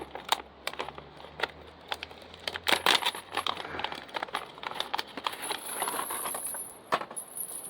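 Hands working small hard objects: a quick, uneven run of clicks, taps and rattles, busiest about three seconds in, with a sharp knock near the end. A faint high steady whine comes in about five and a half seconds in.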